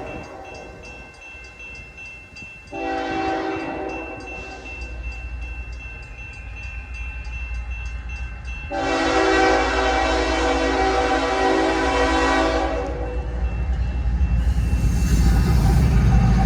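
Diesel freight locomotive's multi-tone air horn sounding a short blast and then a long one of about four seconds, over a low engine and wheel rumble that grows louder near the end as the train approaches.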